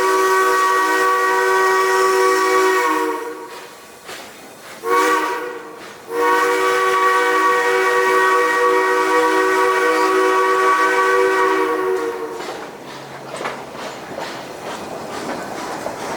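Steam whistle of the Durango & Silverton narrow-gauge steam locomotive blowing a multi-note chord. One blast ends about 3 s in, a short blast follows about 5 s in, and a long blast runs from about 6 to 12 s. After it comes the rattling clatter of the train running on the track.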